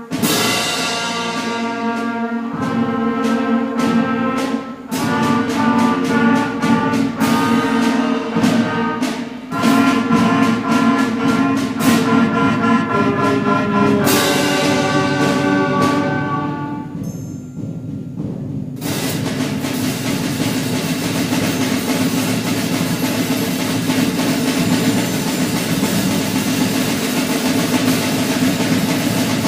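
Middle school concert band playing a piece in 3/4 time, with accented chords. A brief lull about seventeen seconds in gives way to a dense wash of percussion rolls over held low band notes, the percussion section's thunder.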